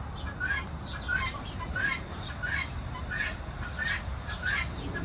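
Chukar partridges calling: a short call repeated steadily, about every three quarters of a second.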